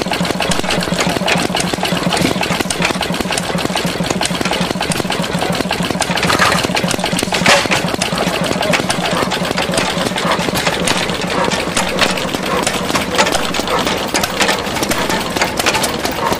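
Galloway 16 horsepower single-cylinder hit-and-miss engine running smoothly, with steady rapid mechanical clicking and knocking and one louder knock about seven and a half seconds in.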